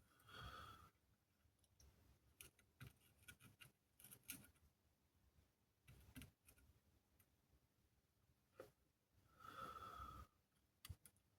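Near silence with faint handling sounds of work on a circuit board: scattered small clicks and two short scraping sounds, one at the start and one near the end.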